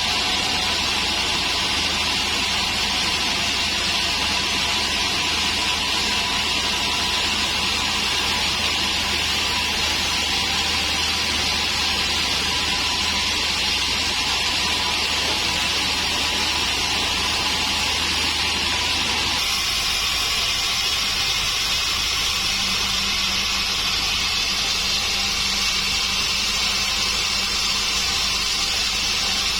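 Large sawmill band saw running steadily, a loud even high hiss with a faint held tone. About two-thirds of the way in the sound shifts abruptly, the low hum dropping away and a different low tone taking over.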